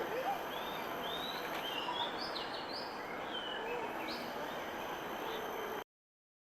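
Birds chirping in short, quick calls over a steady background hiss of aviary noise, the sound cutting off suddenly near the end.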